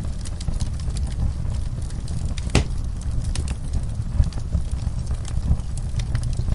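Wood fire crackling in a fireplace: scattered small snaps over a steady low rumble, with one sharp pop about two and a half seconds in.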